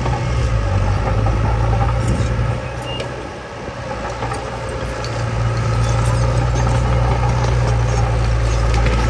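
Heavy diesel earthmoving machinery running steadily, its engine dropping back briefly about three seconds in and then picking up again, with light metallic clinking over the top.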